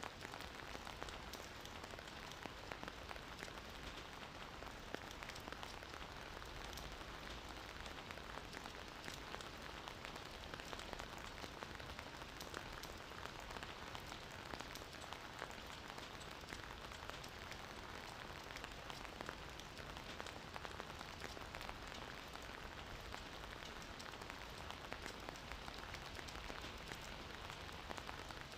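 Steady rain falling on a surface, a constant hiss with many fine drop patters.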